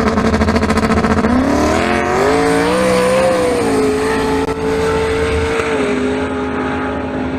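Drag race car engine at full throttle accelerating down the strip. Its pitch climbs and then drops in steps about three and a half and six seconds in as it shifts gears, and it fades toward the end.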